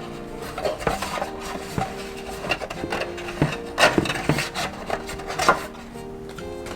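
Hands opening and handling a toy set's packaging: repeated rubbing and scraping with several sharp knocks, over quiet background music.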